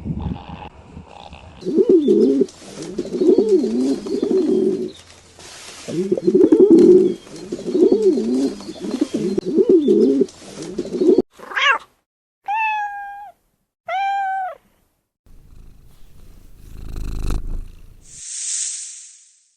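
A cat vocalising: a long run of low, wavering yowls, then two short falling meows, then a brief hiss-like noise near the end.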